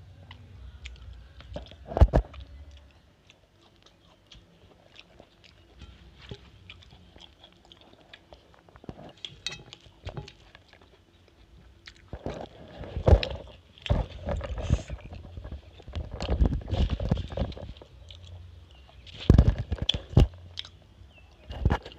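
Close-miked chewing and mouth sounds of a person eating rice and greens by hand, with fingers mixing food on a steel plate. Scattered sharp clicks and smacks, sparse at first and busier in the second half, with a few louder knocks.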